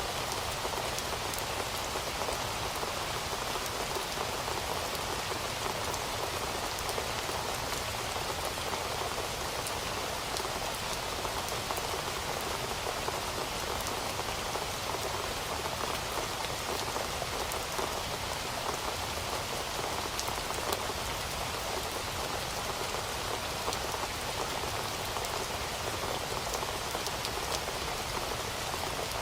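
Heavy rain falling steadily, a dense even hiss with many small drops ticking on a hard surface.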